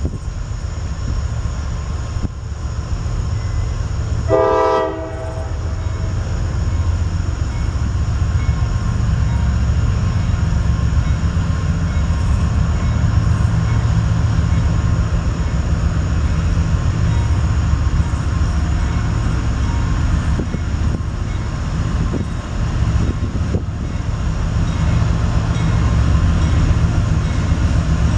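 Freight train rumbling past steadily, with a short blast of the diesel locomotive's horn about four seconds in.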